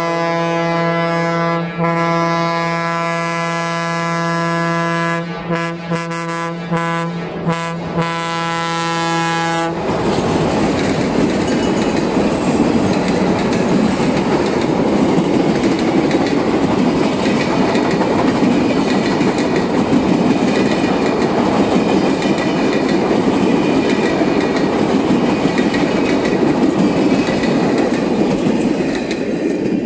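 Diesel locomotive D-16005's horn sounding one long blast, broken into a few short toots near the end of it and stopping about ten seconds in. The train then passes close by, a steady rumble and clatter of wheels on rails, until the last car goes by near the end.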